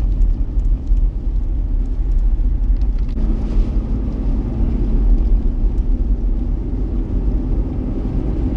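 Steady low rumble of vehicle and wind noise, with a faint steady hum joining about three seconds in.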